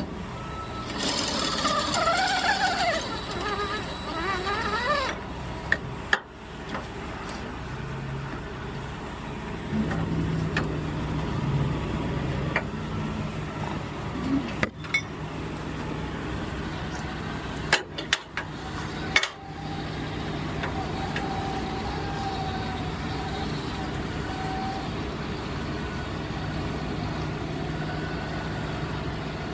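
A heavy vehicle engine idling steadily, with a few sharp knocks along the way and a voice-like sound early on.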